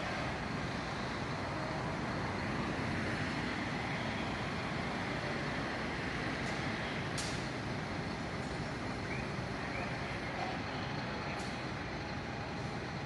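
Steady road traffic noise with heavy vehicles running, and a few short sharp hissing clicks about six and seven seconds in and again near the end.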